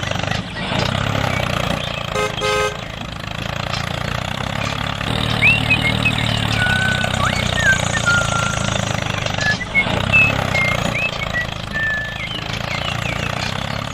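A vehicle engine running steadily, with a short horn toot about two seconds in. Brief high chirps come and go over it in the second half.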